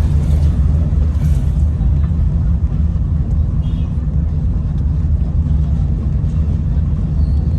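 Steady low rumble of a car driving on the road, engine and tyre noise heard from inside the moving car.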